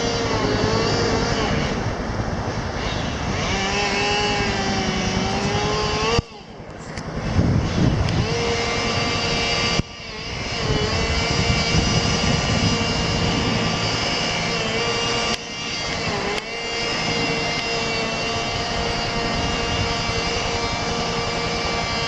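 Rescue helicopter running: a steady turbine whine that wavers slightly in pitch over a dense rotor chop. The sound drops out suddenly about six and ten seconds in and comes straight back.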